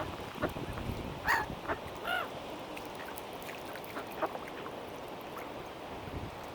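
Waterbirds calling: a few short calls, the clearest about a second in and again about two seconds in, over a steady low background noise.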